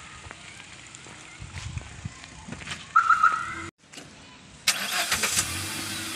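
A car engine starting with a sudden burst of noise about five seconds in and then running steadily at idle. Before that, a short high beep-like tone about three seconds in, and faint knocks and rustling.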